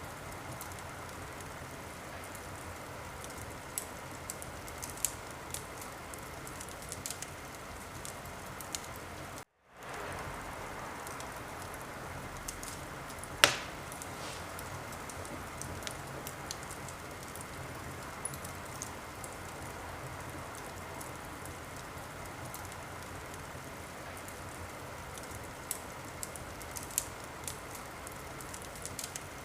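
Wood fire crackling in a fireplace: a steady hiss with scattered sharp crackles and one loud pop about thirteen seconds in. The sound cuts out for a moment just before ten seconds in.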